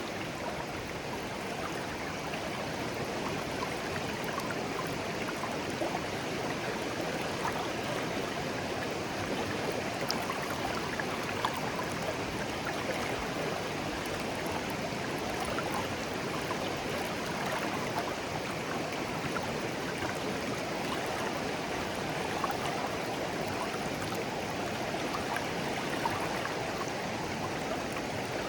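Clear, shallow stream babbling steadily: an even rush of flowing water with a few small splashes and trickles.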